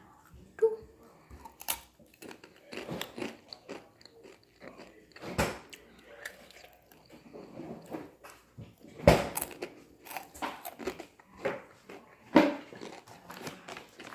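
A person biting and chewing crunchy Takis rolled corn tortilla chips: irregular crisp crunches, with a few louder bites scattered through.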